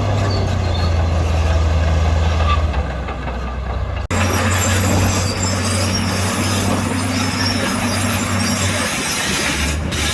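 Heavy diesel construction machinery running steadily with a low engine hum, broken by an abrupt cut about four seconds in, after which the engine sound carries on with more grinding noise.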